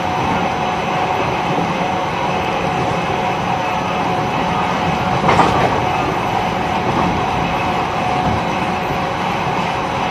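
E129 series electric train running at steady speed, heard from inside its motor car (Toyo IGBT-inverter drive): even wheel-on-rail rumble with a faint steady whine. One brief, louder clatter comes about five seconds in.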